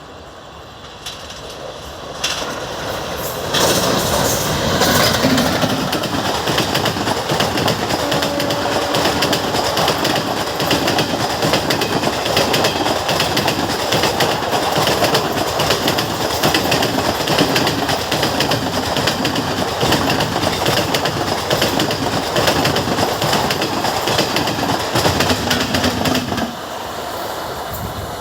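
Train passing close by at a slow, restricted pace, its wheels clattering steadily over the rail joints. The sound builds up over the first few seconds and drops off shortly before the end.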